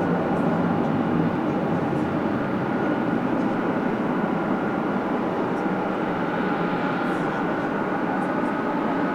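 FedEx Boeing 777F's GE90 jet engines running steadily, an even rumble with a faint whine.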